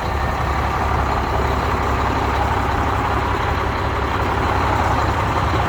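Cummins diesel engine of an International 5600i crane truck idling steadily with a low rumble.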